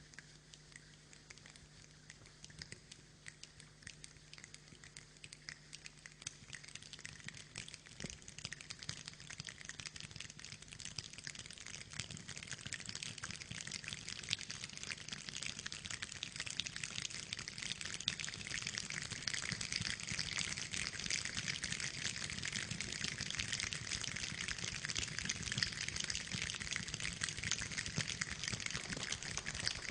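Rain falling as a dense patter of drops, building steadily from a light shower into a heavy downpour.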